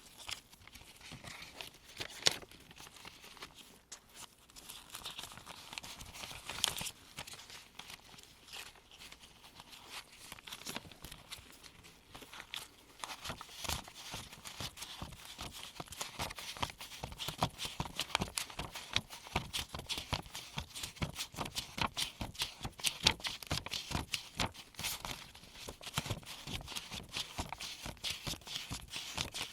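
US one-dollar paper bills being counted off one at a time onto a pile with gloved hands: a run of crisp paper flicks and rustles, quicker and denser in the second half.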